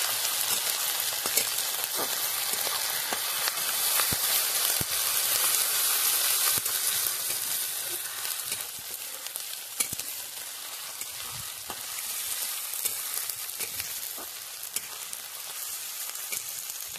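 Sliced onions, green chillies and dried red chillies sizzling in hot oil in a metal kadai, stirred by a steel spatula that scrapes and taps against the pan. The sizzle is loudest in the first half and eases off after about eight seconds.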